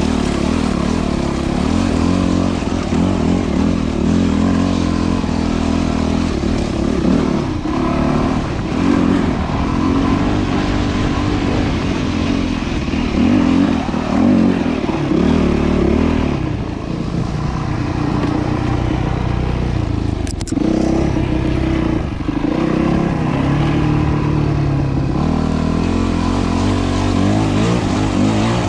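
Yamaha WR250F single-cylinder four-stroke dirt bike engine running continuously, its pitch rising and falling as the throttle opens and closes while riding a trail. There is one sharp knock about twenty seconds in.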